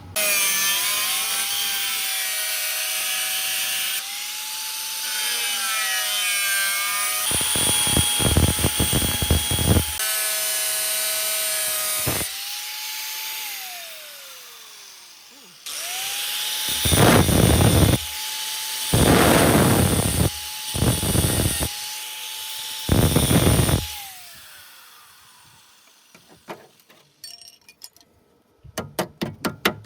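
Electric angle grinder whining as it spins up and winds down several times, with loud rough grinding bursts as it bites into the steel bodywork, about eight seconds in and several times in the second half. A quick run of ticks follows near the end.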